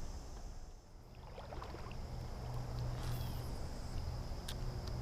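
Evening outdoor ambience: a steady high-pitched drone of crickets and other insects over a low rumble. There is a brief rustle about three seconds in and a sharp click near the end.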